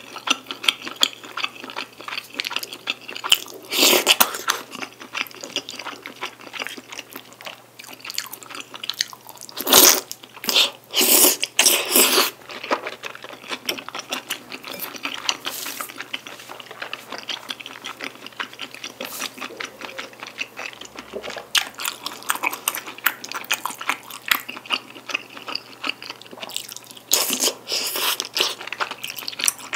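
Close-miked wet chewing of chewy rice cakes and wide glass noodles coated in thick black bean sauce, a steady run of moist mouth clicks and smacks. It grows louder in a few bursts: about four seconds in, again around ten to twelve seconds, and near the end.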